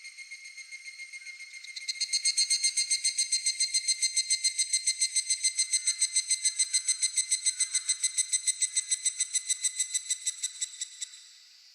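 Higurashi (evening cicada) calling: a rapid run of high, ringing pulses, about six or seven a second, that starts about two seconds in and stops near the end. Other insects trill steadily underneath.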